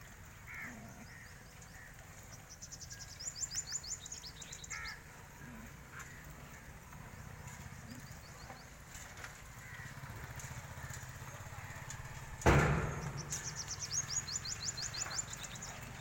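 Small birds singing outdoors, with two rapid high trills of quick falling notes and a few scattered chirps over a low steady rumble. A single loud thump comes about twelve and a half seconds in.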